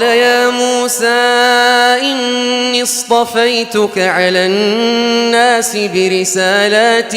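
Quran recitation: a reciter's voice chanting a long, drawn-out melodic phrase, its pitch bending and wavering in ornaments, with only brief breaks for breath.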